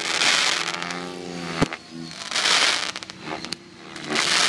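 Fireworks going off: loud hissing, crackling bursts with one sharp bang about one and a half seconds in, over music.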